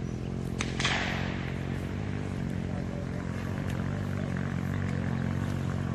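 Vehicle engine running steadily, with a sharp knock and a brief noisy burst that dies away about a second in.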